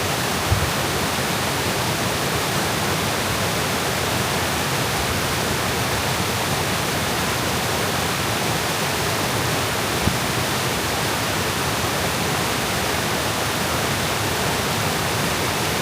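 Waterfall rushing: a steady, even roar of falling water that does not change. Two brief low bumps come through, about half a second in and again about ten seconds in.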